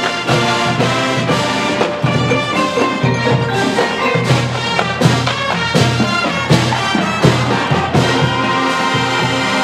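High school marching band playing loudly, with brass over front-ensemble mallet percussion such as marimba and xylophone and a steady beat.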